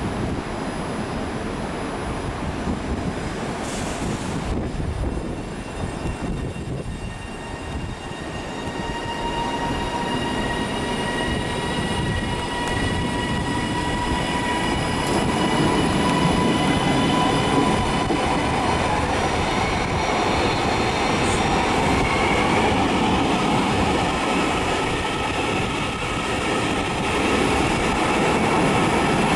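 A train moving in the station: rumbling running noise with a thin, steady high whine that sets in about a third of the way through and grows louder.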